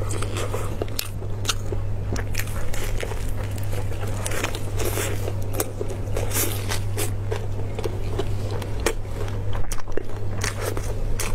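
Close-miked biting and chewing of a lettuce-wrapped piece of braised beef: a quick, irregular run of crisp crunches and wet mouth clicks, with a steady low hum beneath.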